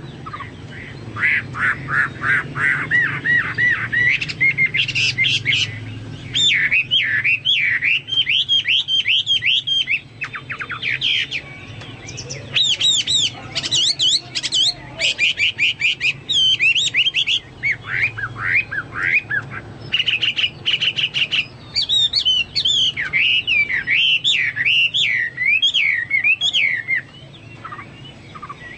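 A Chinese hwamei (melodious laughingthrush) singing loudly and continuously: fast, varied whistled phrases sliding up and down in pitch, broken by a few short pauses and stopping shortly before the end.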